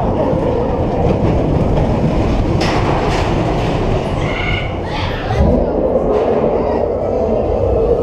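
Ride vehicle rolling along a rail track with a steady rumble and a wavering whine, and a few short hisses midway.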